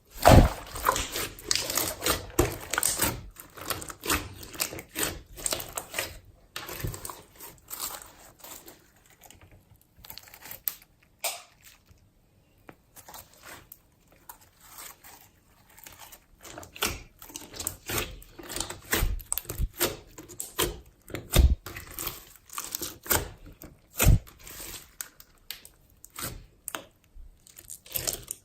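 Hands squeezing, stretching and folding a mass of mixed old slime, making irregular sticky crackles, clicks and popping air pockets. The sounds are busiest at first, thin out for a few seconds in the middle, then pick up again.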